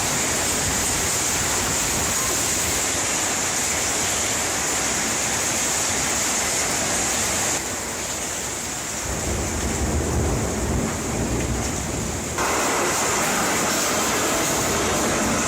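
Storm noise of heavy rain, or hail, and gusting wind: a loud, steady rushing hiss that changes abruptly twice as the footage cuts, with a low rumble of wind buffeting in the middle section.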